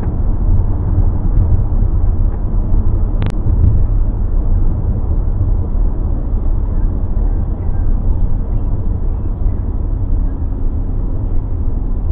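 Car driving, heard from inside the cabin: a steady low rumble of road and engine noise, with a single sharp click about three seconds in.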